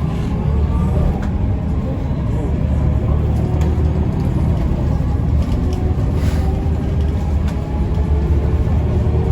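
Mercedes-Benz O405N2 low-floor city bus heard from inside while driving: a steady low engine rumble with road noise, a thin whine that slowly rises in pitch through the second half, and a few brief rattles.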